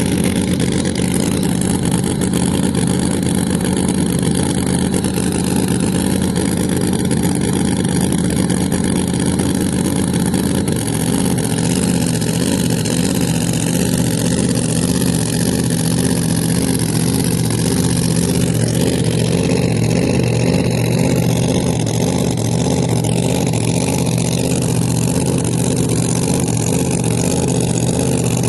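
Drag car engine idling loudly and steadily. About eleven seconds in it drops to a lower, lumpy, pulsing idle.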